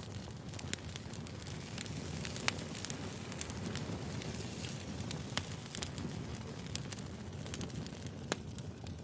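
Wood fire burning: a steady low rumble with irregular sharp pops and snaps of firewood crackling.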